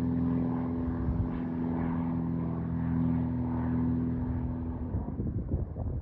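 Propeller airplane engine running during a takeoff, a steady hum of several even tones that fades out about five seconds in, leaving wind buffeting the microphone.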